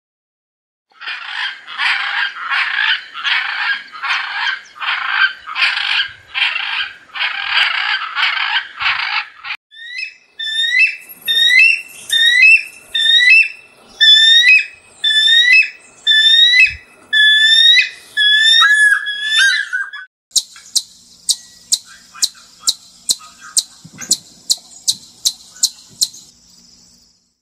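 Three animal calls in turn. First about nine harsh, buzzy hummingbird calls about a second apart. Then a harpy eagle's shrill, hooked whistles, about one a second, and finally a chipmunk's rapid high chip notes, about two a second.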